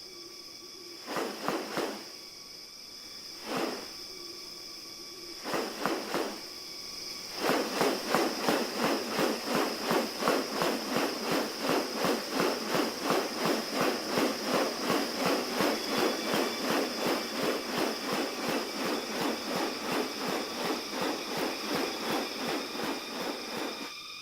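Rainforest animal sounds: a steady high insect whine throughout, a few separate short calls, then from about seven seconds in a fast, even run of repeated pulsing calls, about three a second, that keeps going to the end.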